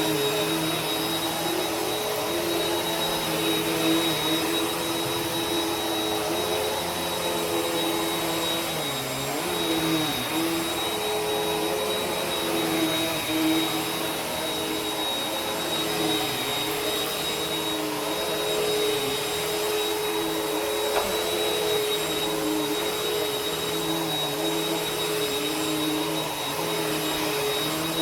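Vacuum cleaner running steadily, a continuous motor hum and airflow whose pitch dips briefly a few times, as when the suction is loaded, about a third of the way in.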